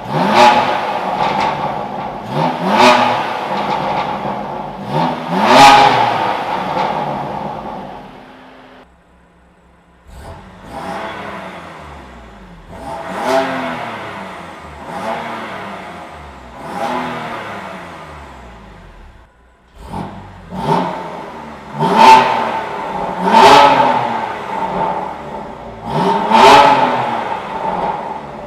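BMW M2 Competition's twin-turbo straight-six, fitted with a decat Rogue downpipe, revving over and over: each rev rises in pitch and falls away, with a sharp crack at the top of several. The revs come in three runs, with short pauses about 9 and 19 seconds in.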